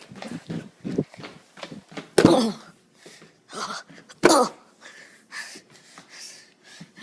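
Short, sudden vocal bursts like coughs or sneezes. Two loud ones come about two and four seconds in, each falling in pitch, with quieter short sounds between.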